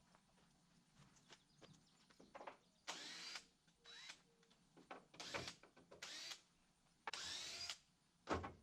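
Cordless power drill run in about six short bursts, the first about three seconds in, each lasting under a second: driving screws into the chicken tractor's wood frame.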